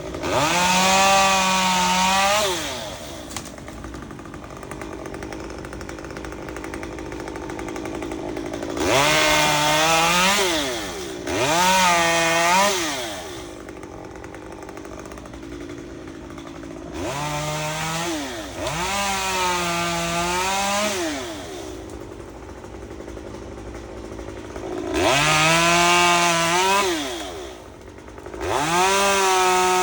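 Two-stroke chainsaw revved to high speed in several bursts of a second or two, dropping back to a steady idle between them.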